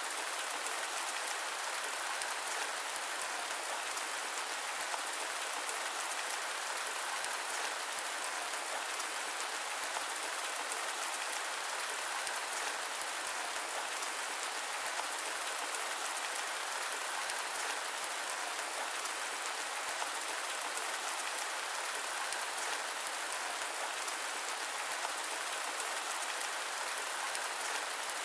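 Steady rain: a dense, even hiss of many small drop ticks, unchanging throughout.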